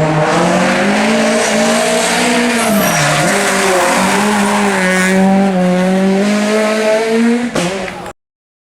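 R2-class rally car engine held at high revs at full throttle, its pitch dipping briefly about three seconds in before climbing back, with tyre and road noise. The sound cuts off abruptly near the end.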